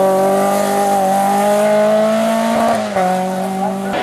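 Racing car engine at high revs under load, its pitch climbing slowly, then dropping sharply about three seconds in as it shifts up a gear.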